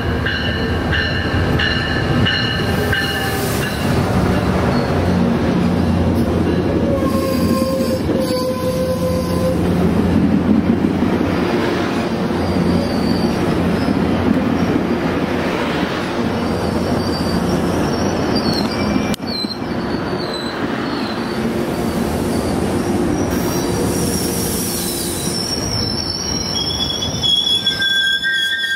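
Metrolink commuter train with bilevel coaches running close past the platform: a steady loud rumble of wheels on rails, with high-pitched squeals coming and going.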